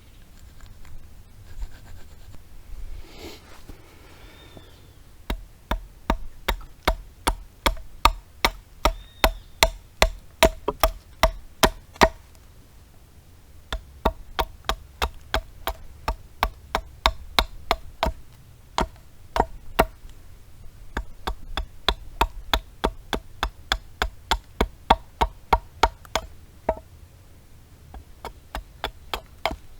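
Rapid, steady chopping strikes of a blade into wood, about three a second, each with a short ring: roughing out a wooden spoon blank. The chopping pauses briefly about halfway through and stops near the end.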